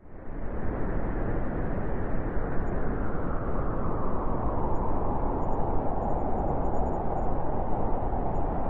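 Blizzard wind blowing steadily as a dense rushing noise. It swells in quickly right at the start, and a higher howling tone grows stronger in the second half.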